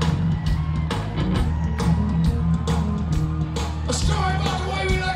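Live rock band playing at a concert, heard from the audience: drums, bass and guitar with a steady beat, and vocals near the end.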